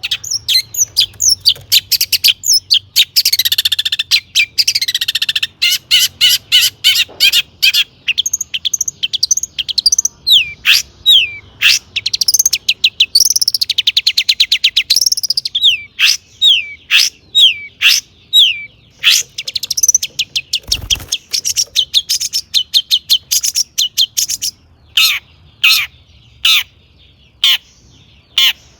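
Long-tailed shrike (cendet) singing a fast, varied song of short chirps, downward-sweeping notes and rapid trills, packed with imitated calls of other birds. The notes come densely for most of the time and thin to spaced single calls near the end.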